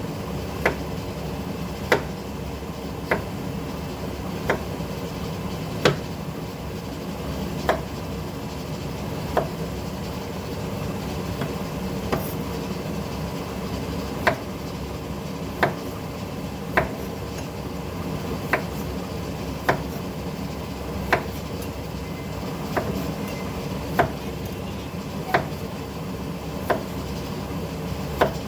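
A knife cutting on a cutting board, one sharp knock about every second and a bit, over a steady low rumble.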